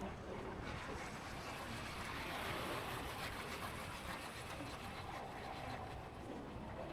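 Steady rushing noise of wind and street traffic heard from a moving motorbike, swelling a little midway.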